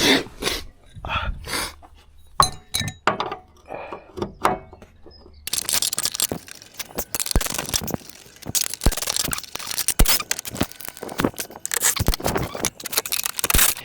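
A spanner working bolts out of a car's body panel: a few separate metallic clinks and knocks, then from about five seconds in a dense run of rapid clicking and rattling.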